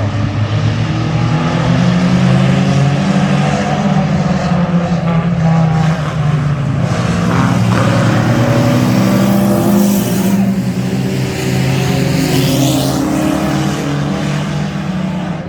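Engines of several mini race trucks running hard together during a heat race, their notes overlapping and shifting as the pack circulates.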